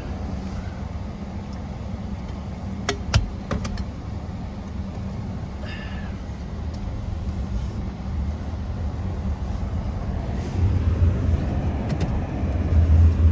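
Truck engine running with a steady low rumble, getting louder from about ten seconds in as it pulls harder. There are a few sharp clicks around three seconds in.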